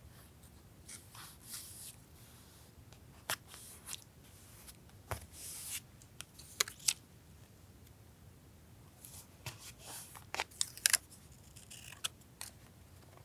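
Paper collage work at a desk: paper and stickers rustling as they are handled, with scattered light taps and sharp clicks in short, irregular bursts, the sharpest clicks coming in a cluster a little after the middle.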